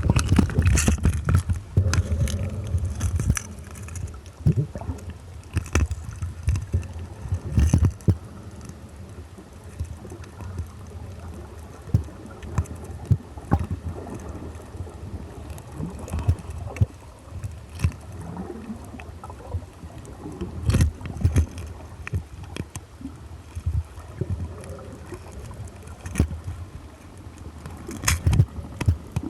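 Muffled water sloshing and gurgling with a steady low rumble and irregular knocks and splashes.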